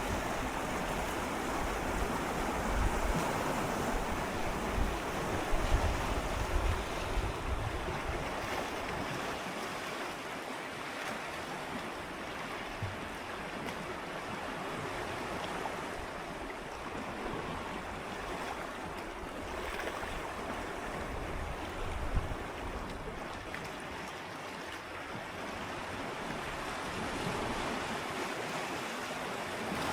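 Gentle sea waves swirling and lapping against shoreline rocks, close up: a steady wash of moving water that is fuller in the first few seconds, eases off, and swells again near the end.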